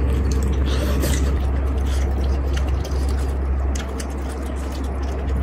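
Chewing and biting into crispy fried chicken, over a steady low hum.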